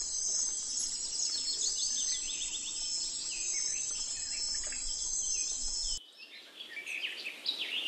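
Outdoor nature ambience: a steady high insect drone with birds chirping over it. About six seconds in it cuts abruptly to a different recording where the insect drone is gone and the bird chirps are busier.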